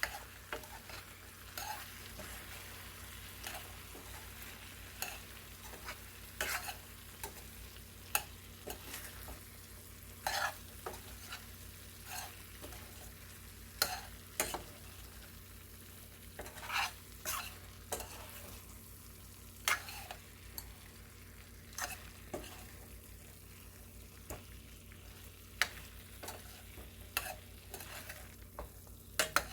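A spoon stirring and scraping pepper chicken around a pan, in irregular strokes with occasional clinks against the pan, over a steady low hum.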